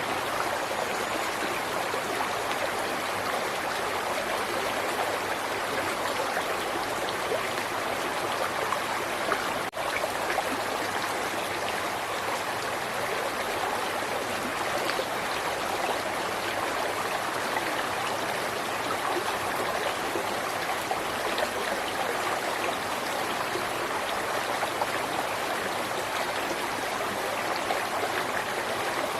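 River water running and babbling over stones, a steady rushing with fine splashy flickers. There is a brief dropout just before ten seconds in.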